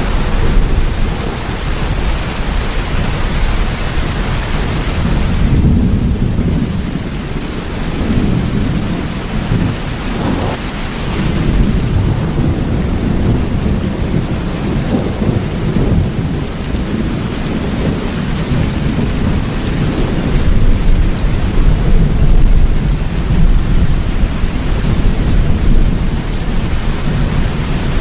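Steady heavy rain with low rolling thunder rumbling underneath, the whole storm swelling a little louder in the last third.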